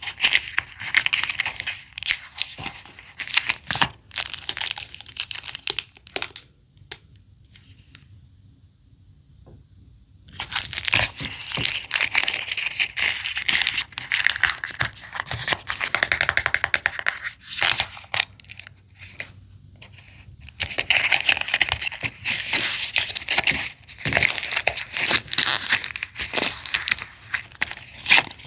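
Small plastic wrappers being crinkled and torn open by hand, in long bursts. There is a quieter pause of a few seconds near the middle.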